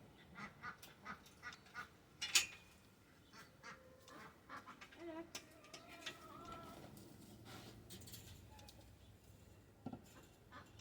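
Ducks quacking faintly: a string of short quacks in the first couple of seconds, then a longer wavering call around the middle.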